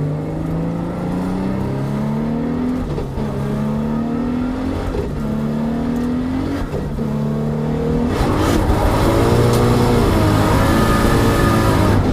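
Nissan GT-R drift car's 4-litre, nitrous-injected engine accelerating hard through the gears, its note climbing and then dropping at an upshift about every two seconds while the rear wheels spin. From about eight seconds in it gets louder, with the engine note wavering up and down over heavy tyre noise.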